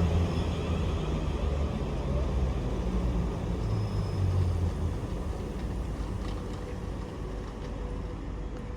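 Train running through the station with a deep rumble and low hum that fade away over the first few seconds, leaving a quieter steady background.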